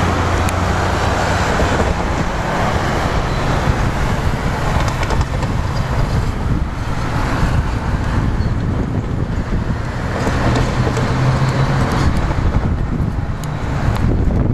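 Steady low rumble and hum of a Queensland Rail Tilt Train approaching from a distance, mixed with wind noise on the microphone.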